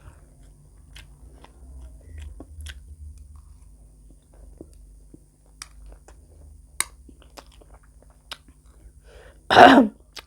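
Close-miked chewing of spicy food: faint, scattered wet mouth clicks, then a short, loud breathy burst from the mouth about nine and a half seconds in.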